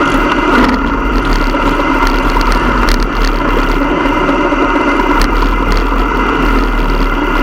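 Motorcycle engines running steadily, with an even, unchanging pitch.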